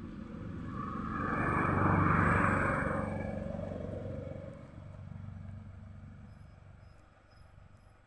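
A motor vehicle passing by: its sound swells to a peak about two seconds in, then fades away over the next few seconds.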